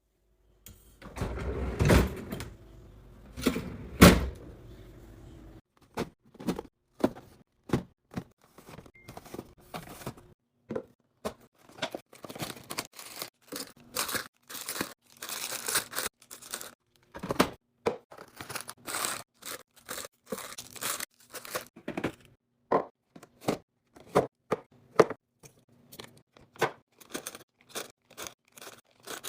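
Groceries and containers being handled and set down: rustling and tearing packaging, with two loud knocks early on and then a quick run of short clicks and knocks.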